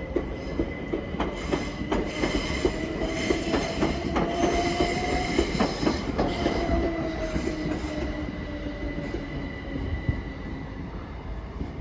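Southern Class 377 Electrostar electric multiple unit pulling out of the station. Its traction motors whine, rising in pitch for about five seconds and then falling away, with a steady high tone and a few clicks of wheels over rail joints. The sound fades near the end.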